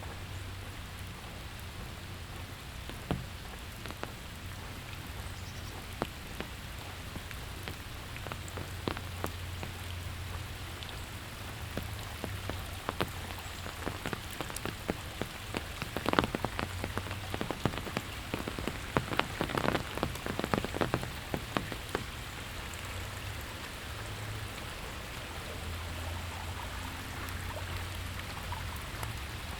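Steady rain falling, with many sharp close ticks of drops that come thickest in the middle stretch.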